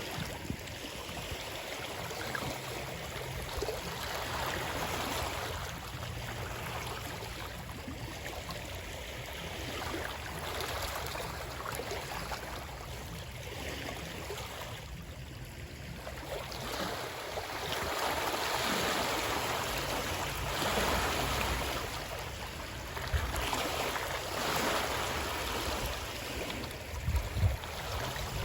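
Rushing water that swells and eases every few seconds over a low rumble, with a few short knocks near the end.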